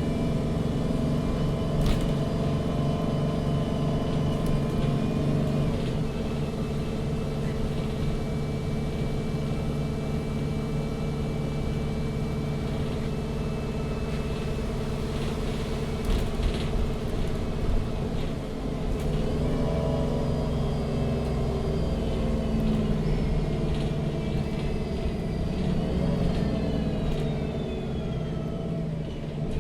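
MAN NG 313 CNG articulated city bus heard from inside, its gas engine running with a steady drone as the bus drives. A few rattles and knocks come about two seconds in and again around the middle, and in the second half a high whine rises and falls in pitch several times.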